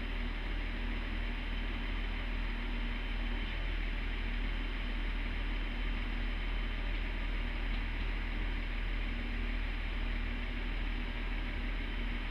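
Steady low rumble and hiss of a train standing at a station, with a faint hum that comes and goes.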